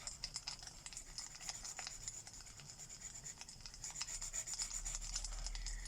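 Alcohol marker tips rubbing and scratching across paper in quick strokes while coloring. Fireplace crackle ticks through it.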